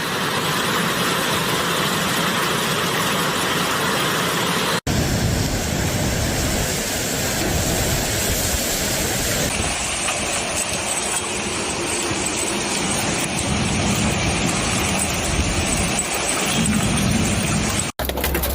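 Steady rushing noise of a heavy storm, rain and wind, in several clips that change abruptly about 5 s in, again near 10 s, and just before the end.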